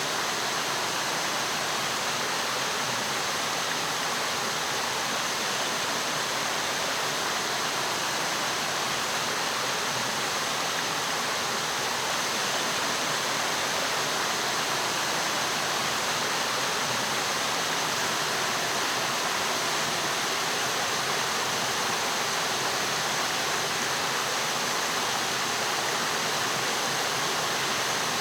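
Mountain stream water flowing, a steady even rush.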